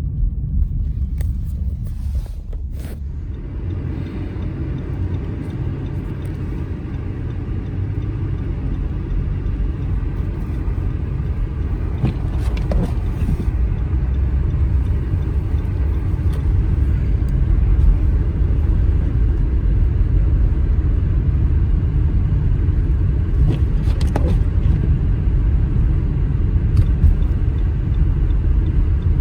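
A car driving on a snowy road: a steady low rumble of engine and tyres, growing a little louder a few seconds in, with a few faint ticks.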